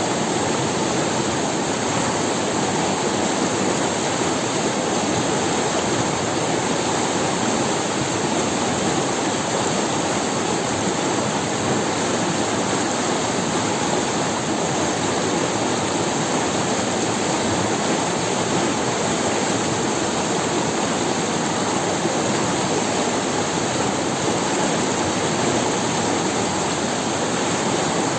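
A forest river's water rushing steadily over stones.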